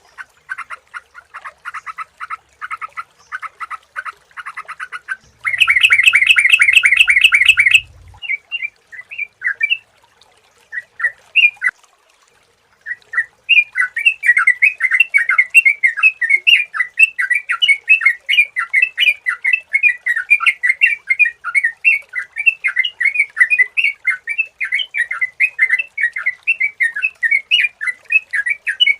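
Yellow-vented bulbul (trucukan) calling in fast runs of short chattering notes. There is a louder, harsher stretch with a low rumble beneath it about five to eight seconds in, a few scattered notes after it, and a steady rapid chatter from about a third of the way in onward.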